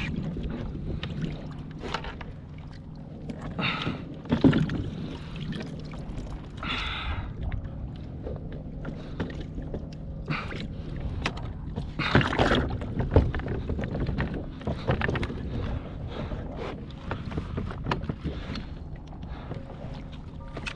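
Irregular knocks, thumps and splashy handling noises on a fishing kayak, over a steady low rumble of water and wind.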